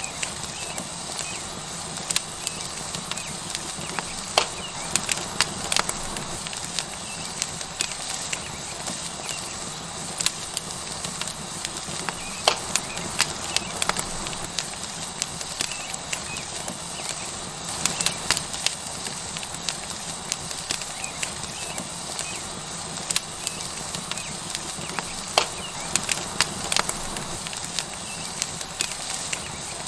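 Tomahawk steak sizzling on a hot stone over a wood fire: a steady hiss with frequent sharp crackles and pops.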